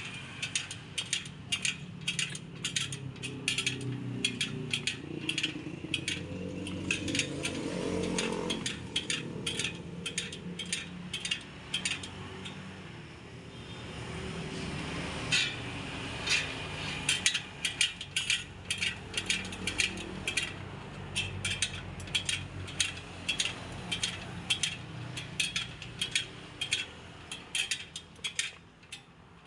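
Rapid metallic clicking, a few clicks a second, from work on a spoked motorcycle wheel rim, over a low steady hum. The clicking stops about twelve seconds in and resumes about three seconds later.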